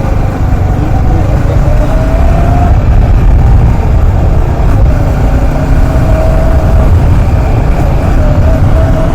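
Motorcycle riding along the road, its engine running steadily under a heavy low rumble.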